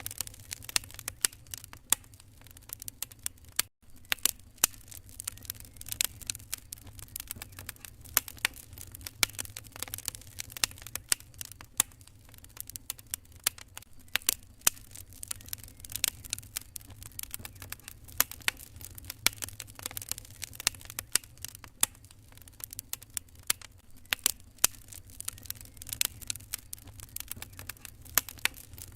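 Wood fire crackling, with frequent irregular sharp pops and snaps over a steady low rumble. The sound drops out for an instant just under four seconds in.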